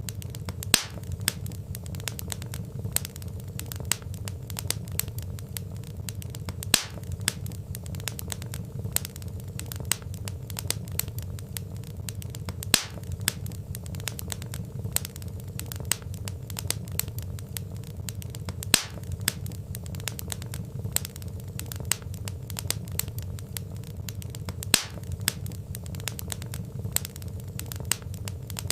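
Wood fire burning in a fireplace: logs crackling with many small snaps over a low steady rumble of flame, and a sharper, louder pop about every six seconds.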